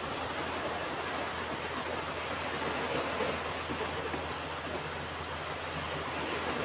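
Ocean surf washing on a beach: a steady rush of waves without a distinct single crash.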